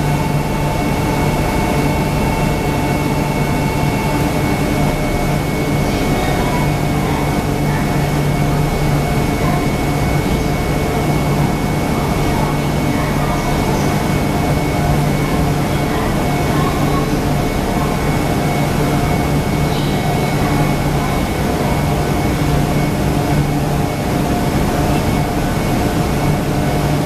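Steady hum of a stationary E1 series Max double-decker Shinkansen's onboard equipment: an even mechanical drone with several steady tones. A high tone drops out about four seconds in.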